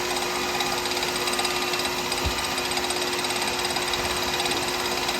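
Wood lathe running steadily at about 3,000 RPM, with a steady motor hum and rattle. There is one soft knock about two seconds in.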